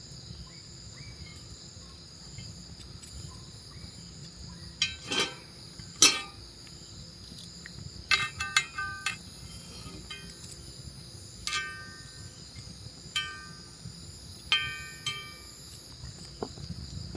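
Steady high chirring of crickets and other night insects. Over it come a couple of louder knocks about five and six seconds in, then several sharp clinks that ring briefly, like metal tapping metal.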